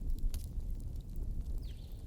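Wood campfire burning: a steady low rumble of flames with a sharp crackle about a third of a second in and a brief high falling hiss near the end.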